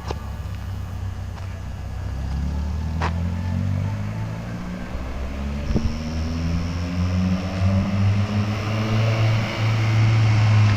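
Volkswagen Gol G2 engine running with a light exhaust rumble, the revs rising and falling and the engine getting louder in the second half.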